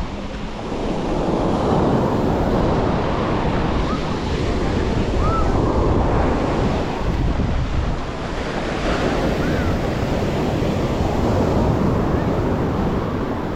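Surf washing onto a beach, a steady rushing noise that swells and eases, with wind buffeting the microphone.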